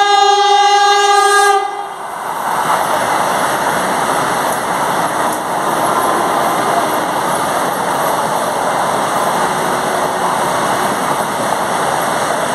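Vande Bharat Express electric trainset sounding its horn in one held tone that cuts off about a second and a half in. Then comes the steady rushing noise of the train passing close at speed.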